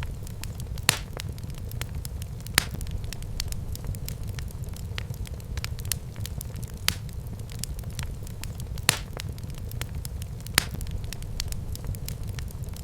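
Wood fire burning in a fireplace: a steady low rumble of the flames with frequent small crackles and a sharp louder pop every second or two.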